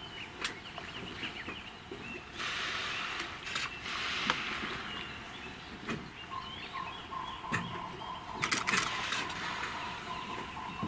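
Small birds chirping, with a couple of seconds of rushing noise a little after the start and a steady high tone that begins about halfway through.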